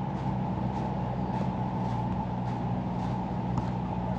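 Footsteps at a walking pace, about two a second, over a steady low mechanical hum from an engine.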